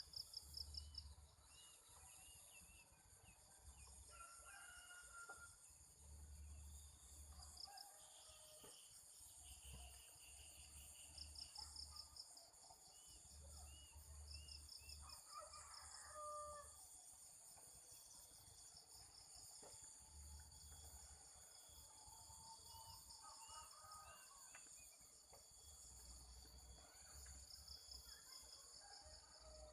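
Faint rural ambience: crickets chirping in steady pulsing trills, a rooster crowing a few times and small birds giving short chirps.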